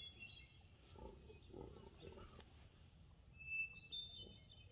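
Quiet outdoor background with faint bird calls; a clearer short run of high chirping notes comes about three and a half seconds in.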